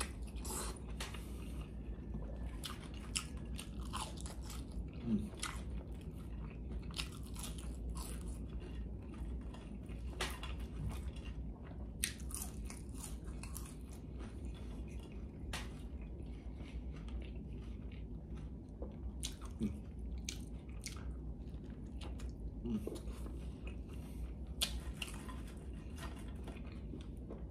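A person eating: chewing and biting food with many short, crisp crunches and mouth noises scattered throughout, over a low steady hum.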